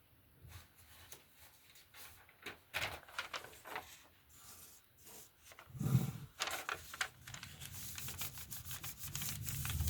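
Paper being rubbed and pressed by hand, smoothing a glued paper bird cut-out down onto a paper pocket: soft rustles and light taps, with a louder knock about six seconds in. A low hum and busier rustling come in over the last two seconds.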